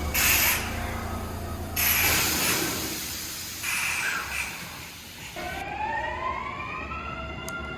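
Electric train at a station: a rushing hiss for the first five seconds or so, then the traction inverter's whine, several tones rising together in pitch as the train accelerates away.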